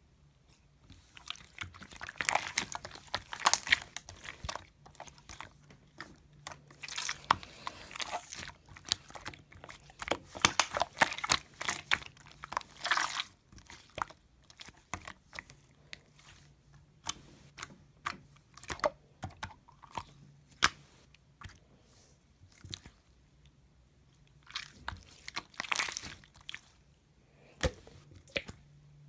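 Slime being squished and pressed by hand: clusters of sticky clicks and crackling pops in bursts of a few seconds, with quieter stretches between.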